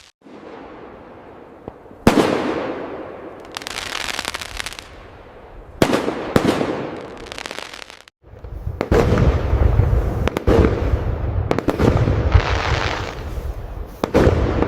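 Fireworks display: sharp aerial bursts at about two seconds and again around six seconds, each trailing off in crackle, then a dense barrage of booms with deep rumble and crackling from about eight seconds on.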